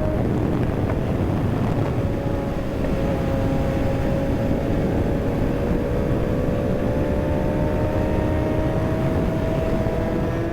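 Kawasaki ZX-6R inline-four engine running under way, its pitch dropping just after the start, then climbing slowly and steadily as the bike accelerates. Heavy wind rush on the microphone throughout.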